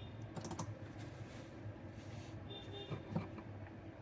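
A few faint computer clicks, about half a second in and again near the three-second mark, over a low steady hum.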